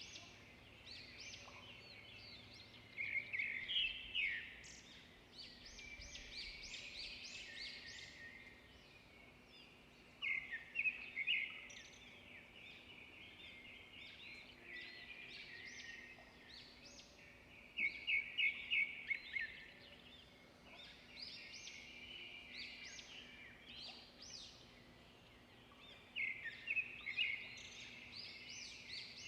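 Several songbirds singing and chirping at once. About every seven or eight seconds a louder song phrase of quick repeated notes stands out from the steady twittering.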